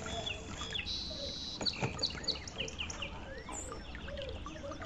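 Small birds chirping: many short, quick chirps, most of them sweeping downward, over a low steady background hum.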